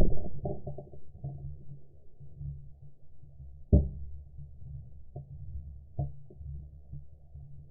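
Handling noise on a shotgun-mounted camera: a muffled low rumble with a few scattered knocks, the loudest about four seconds in.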